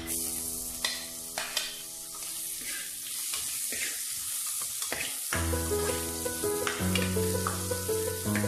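Chopped garlic and ginger sizzling in hot oil in a metal pan, with a metal ladle scraping and clicking against the pan as it is stirred. Background music grows louder about five seconds in.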